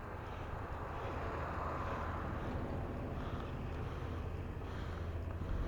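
Outdoor background noise with a steady low drone and no distinct events.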